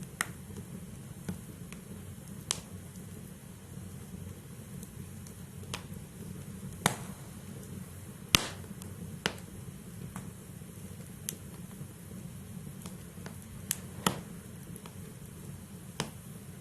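Wood fire burning in a fireplace: scattered sharp crackles and pops from the burning logs over a steady low rumble of the flames, with the loudest pop about eight seconds in.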